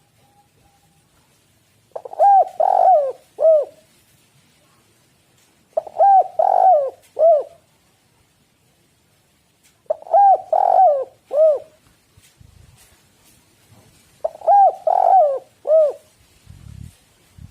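Spotted dove (tekukur) cooing: four repeated three-note phrases about four seconds apart, the third coo in each phrase set a little apart from the first two.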